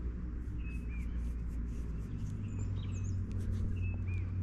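Songbirds calling outdoors: a short dipping call phrase comes twice, with a couple of higher whistles near the middle, over a steady low hum.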